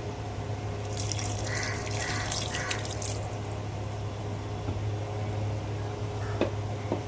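Water splashing for about two seconds over a steady low hum, with a few faint clicks near the end.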